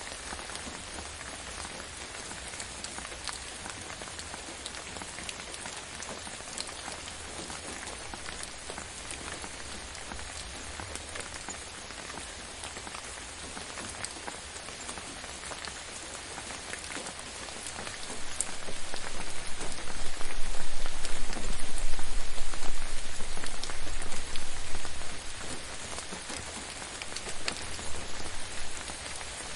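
Steady gentle rain, with a dense patter of drops on a surface. In the last third a low rumble swells up for several seconds and fades, with a shorter swell near the end.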